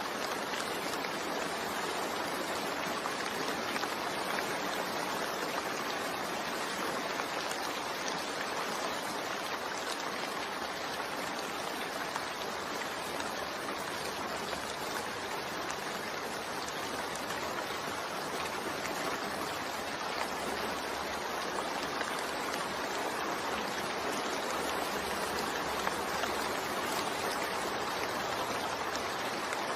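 Steady rain falling, a continuous even hiss of drops with no let-up.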